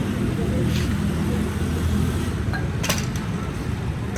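Busy street ambience: a steady low rumble of motor traffic, with two sharp clinks, one about a second in and one near three seconds.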